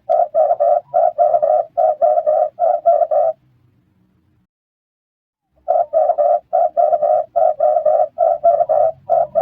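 Red turtle dove calling: a quick run of short, low coos in twos and threes. The calling breaks off a little over three seconds in and starts again after about two seconds of silence.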